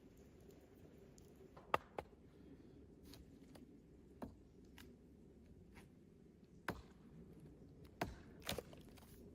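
About six sharp knocks and clicks, irregularly spaced, over a faint steady low rumble.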